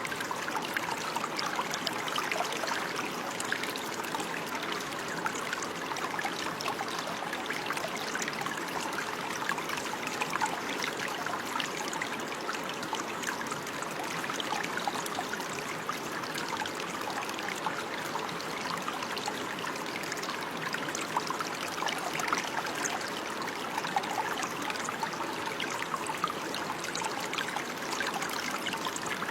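Running water: a small stream or brook flowing and trickling steadily, with fine splashing detail.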